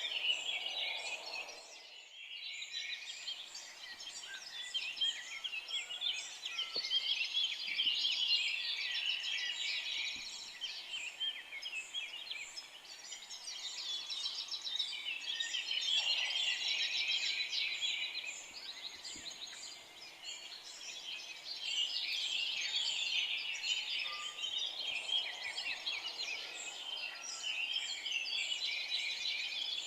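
A chorus of forest songbirds singing together: many overlapping high chirps and trills, with no single call standing out.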